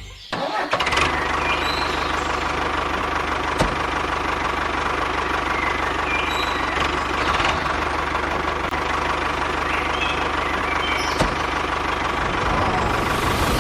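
Small engine running steadily, starting about half a second in, with two sharp clicks along the way.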